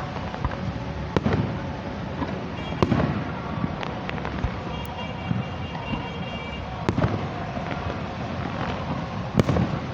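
Aerial fireworks bursting: four sharp bangs spread over several seconds, with smaller pops and crackles in between.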